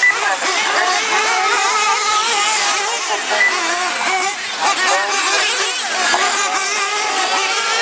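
Several radio-controlled monster trucks and truggies racing together, their small motors revving up and down over one another in a high, wavering whine.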